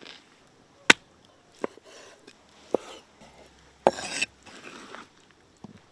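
Cooking utensils and dishes being handled during food preparation: three sharp separate knocks, then a louder, rough clatter lasting about half a second roughly four seconds in.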